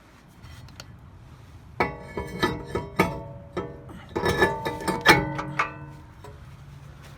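Small metal parts clinking and knocking together, a quick cluster of strikes from about two to six seconds in, each leaving a short metallic ring.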